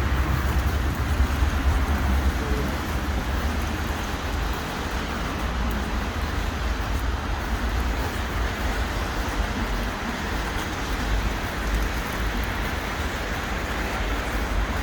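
City street traffic noise: a steady hum and low rumble of passing cars.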